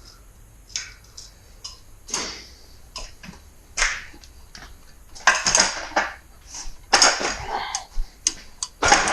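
Hand tools and small metal hardware being handled: scattered clicks, then bursts of metallic clinking and rattling about five, seven and nine seconds in.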